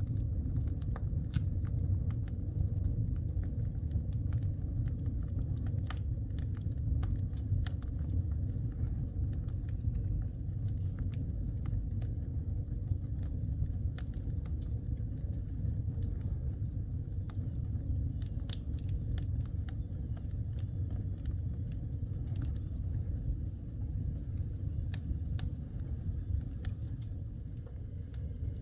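Wood fire burning in a fireplace: many sharp crackles and pops over a steady low rumble of the flames.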